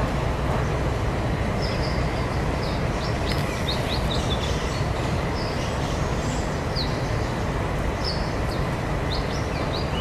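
Short, high bird chirps, coming in small groups of quick notes, over a steady low rumble of background noise.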